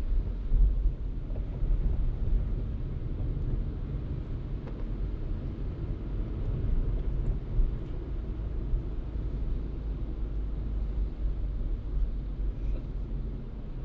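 A moving car's steady low rumble of tyres and engine on the road, with no distinct events.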